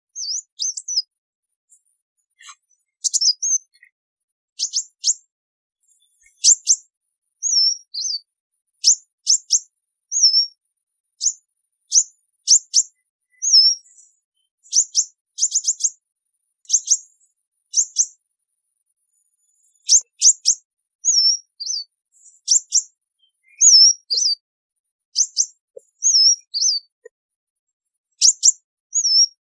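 Sunbird calling to its flock: short, high, thin chirps, some in quick runs of two to four, others as little wavering twitters, repeated about once a second with a few short pauses.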